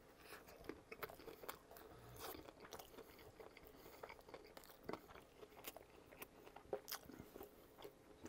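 Close-miked chewing of a mouthful of hot dog in a soft toasted bun: faint, irregular mouth clicks and crunches.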